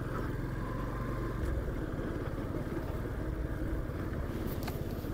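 Yamaha FZ-S V3 motorcycle's single-cylinder engine running steadily at low speed, a low even hum with no sudden changes.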